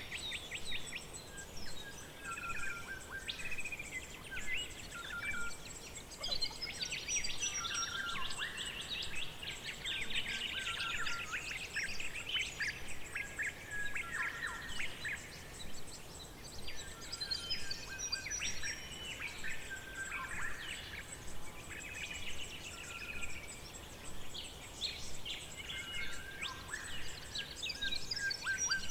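Forest birdsong: several birds chirping and trilling over one another in quick, overlapping calls.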